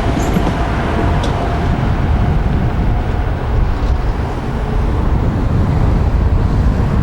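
Locomotive-hauled passenger train running past: a steady, loud low rumble.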